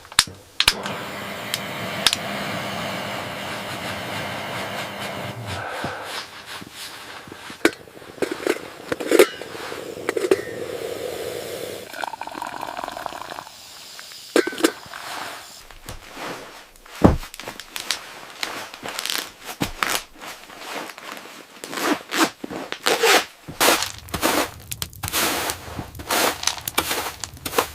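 A run of sharp cracks, knocks and scrapes, irregular and growing denser in the second half, after a few seconds of steady noise at the start.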